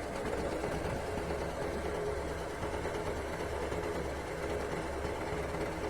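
Heavy diesel engine idling steadily at a low, even speed.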